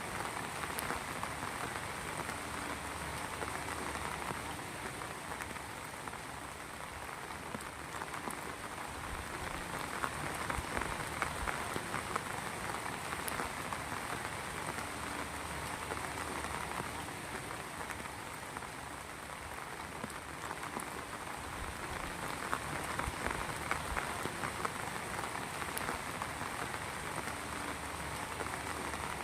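Steady heavy rain falling on surfaces, a dense even hiss with many close, individual drop impacts.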